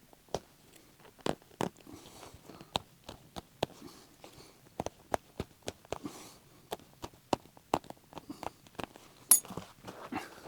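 Sharp blade cutting through the stitching threads of a vinyl and fabric car seat cover: small irregular snaps, about three a second, as the threads part, with soft rustling of the material between. One snap near the end is louder than the rest.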